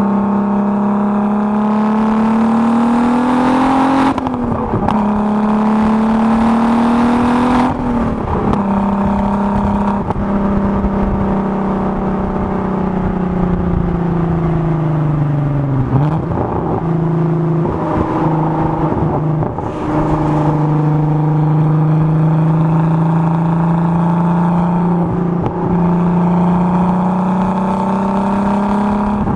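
Turbocharged VR6 engine of a Volkswagen Golf Mk4 running under way. Its pitch climbs and drops back twice in the first eight seconds, sinks slowly over the next several seconds, then holds fairly steady with a step up about two-thirds of the way through.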